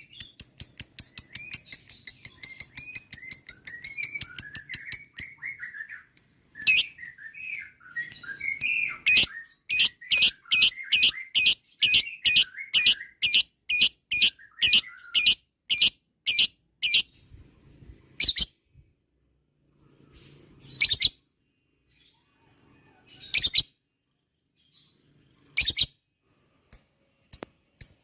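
Lovebird ngekek: a fast run of shrill, clipped notes for about five seconds, with softer chirping underneath. It then calls in sharp notes about twice a second, and near the end single sharp calls come a few seconds apart.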